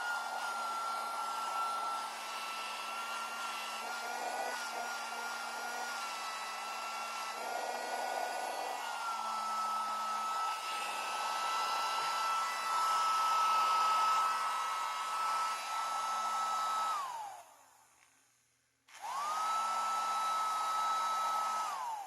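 Tiny handheld vacuum's small electric motor and fan running with a steady high whine. It winds down about 17 seconds in, starts again with a rising whine about two seconds later, and winds down once more near the end.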